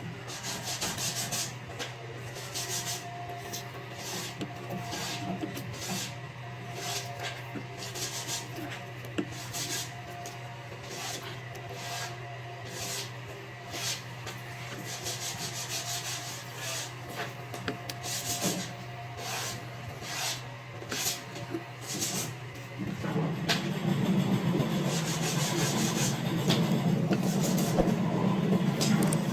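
Wood being rubbed down by hand with an abrasive, in repeated scraping strokes about one to two a second. About three-quarters of the way through, a louder steady drone comes in.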